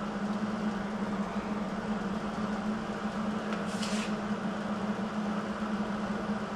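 Steady machine hum over a background hiss, with one short, higher hiss a little past halfway.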